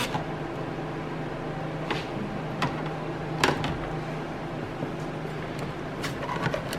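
Steady low hum with a few scattered sharp clicks and taps from hand work on a car's dashboard parts.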